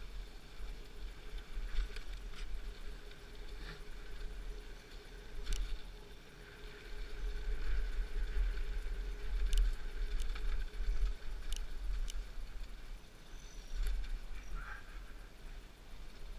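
Mountain bike riding along a dirt trail: a steady low rumble of wind and rolling, with scattered sharp clicks and rattles from the bike.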